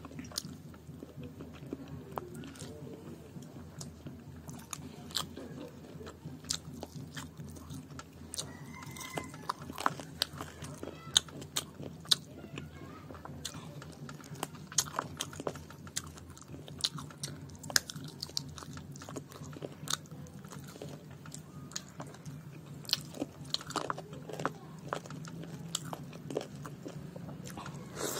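Close-up chewing and lip-smacking of a person eating curry and rice by hand, with many short, sharp wet mouth clicks throughout. A steady low hum runs underneath.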